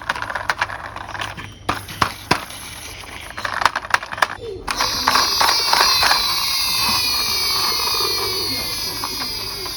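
Hard plastic toy parts clicking and snapping together. About halfway through they give way abruptly to a loud, steady sound effect made of many falling whistle-like tones.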